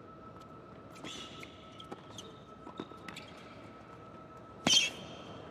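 Tennis being played: shoes squeaking on the court and a ball bouncing, with one loud, sharp hit nearly five seconds in.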